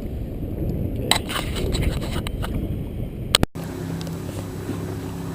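Wind buffeting the microphone over choppy water around a canoe, with a few sharp handling clicks. About two-thirds of the way in the sound cuts out briefly and a steady low hum with several even tones follows.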